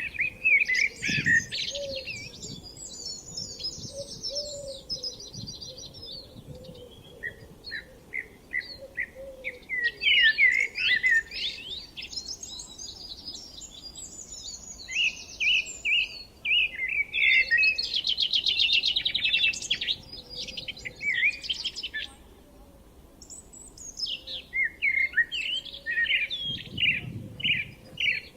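Songbirds singing in a spring dawn-chorus style: several overlapping songs of quick repeated chirps and fast trills, with a brief lull about three-quarters of the way through.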